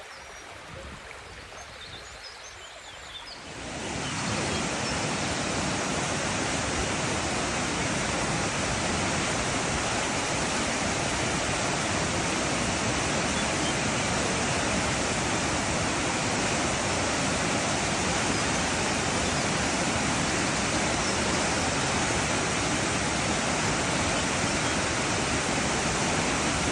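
Rushing water, a steady even rush that swells suddenly about three and a half seconds in and then holds loud and unchanging.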